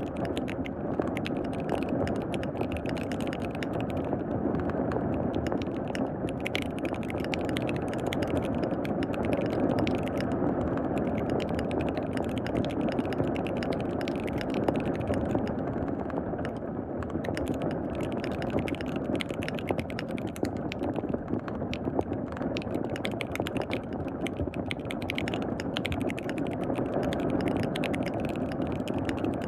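Continuous fast typing on a KBD67 Lite R3 mechanical keyboard with lubed linear switches, a dense run of clacking keystrokes over a steady hiss of rain.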